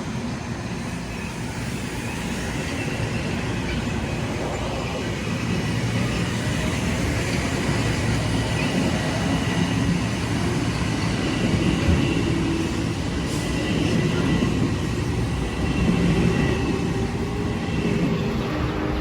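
Metro-North electric multiple-unit commuter trains (M7A and M3) running past, a continuous rumble of wheels on rail with a faint steady whine from the traction motors.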